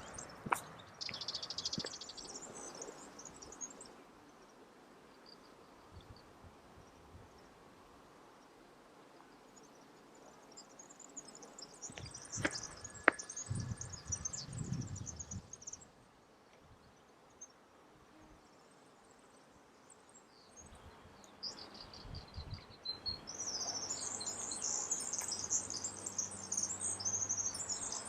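Small birds chirping in high, twittering trills. They come in spells: at the start, again about halfway through, and loudest over the last few seconds. A couple of sharp clicks sound a little before the midpoint.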